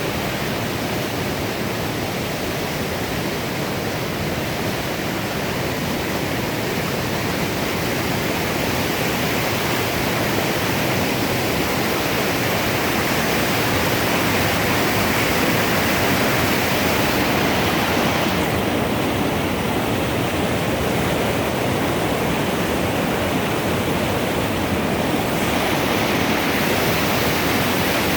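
Steady rush of flowing river water, growing a little louder partway through.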